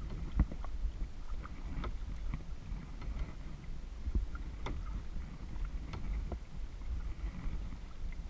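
Kayak paddling: water sloshing against the paddle and hull, with small sharp splashes and drips at irregular moments, over a steady low rumble of wind on the microphone.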